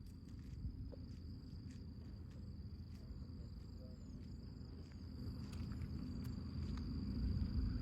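Insects trilling steadily at one high pitch, over a low rumble that grows louder near the end.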